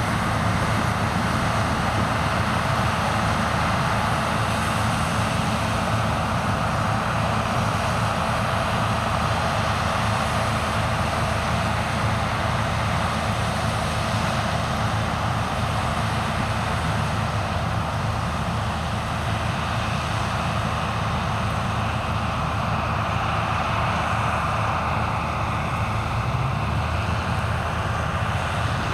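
Heavy farm machinery running steadily at work in a corn harvest, a constant low engine hum under a wash of mechanical noise.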